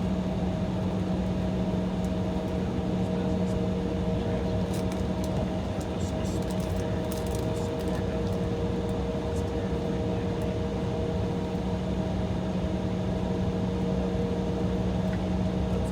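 Steady drone inside an Embraer E175 jet's cabin while it waits on the taxiway, with a low steady hum and a couple of higher steady tones; a few faint ticks partway through.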